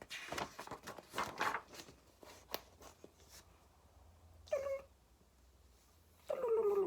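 A cat meowing twice: a short meow about four and a half seconds in, then a longer meow that falls in pitch near the end. Rustling comes before, in the first two seconds.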